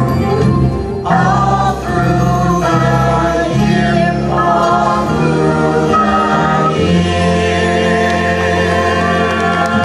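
Music: a group of voices singing a Christmas song with instrumental backing, drawing out long held notes.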